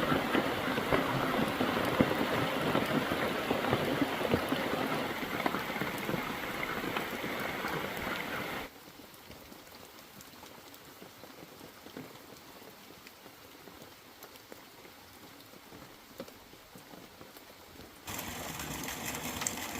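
Heavy rain, a dense steady patter of drops. About nine seconds in it drops suddenly to a much fainter hiss, then comes back louder near the end.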